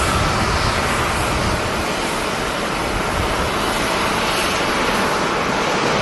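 Jet airliner engines running, heard as a steady, broad rushing noise with a faint high whine that fades in the first second.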